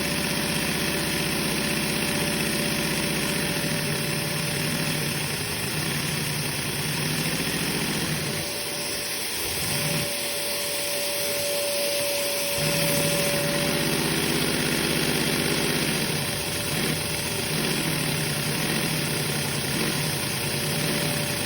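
Lego V6 vacuum engine running on suction, its rapid piston beat drifting up and down in speed over a steady whine. About eight seconds in the beat fades for roughly four seconds, then picks back up.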